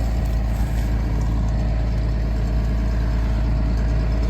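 Farm tractor engine running steadily up close, a constant low drone with an even hum.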